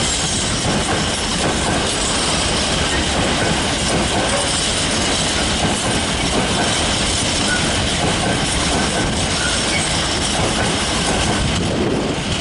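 A long rake of empty freight wagons behind a Class 66 diesel rolls through the station at speed, making a steady, loud rail noise with no let-up.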